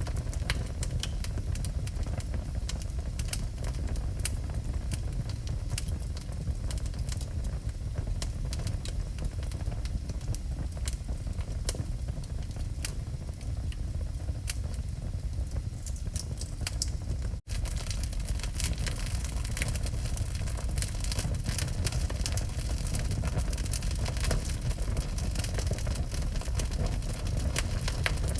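Wood fire burning in a fireplace: many sharp crackles and pops over a steady low rumble. The sound drops out for a split second about two-thirds of the way through, and the crackling is denser after it.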